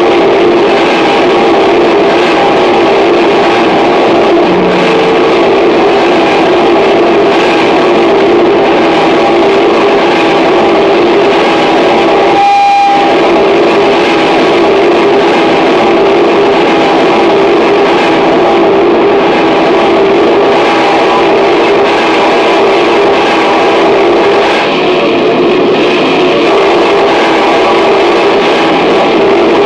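Harsh noise music: a dense, loud, unbroken wall of distorted noise layered over several droning tones, with a brief dip and a short clear tone about twelve seconds in.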